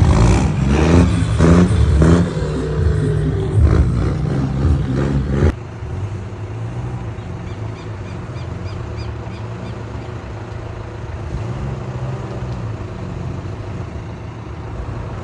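A loud, busy passage with revving for about five seconds that cuts off abruptly, then a truck engine running steadily with a low hum.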